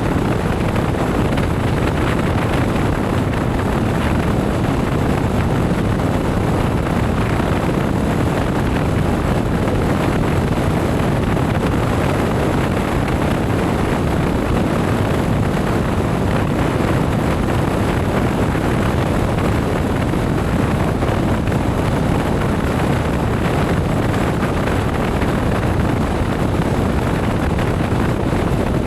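Steady wind rush buffeting the microphone on a moving motorcycle, with engine and road noise blended underneath.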